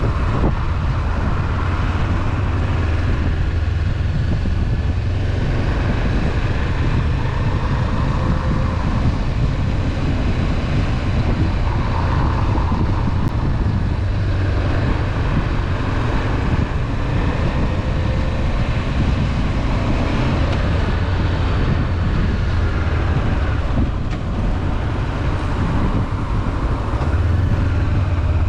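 Honda CB500F parallel-twin engine running at a steady cruise, with wind and road noise.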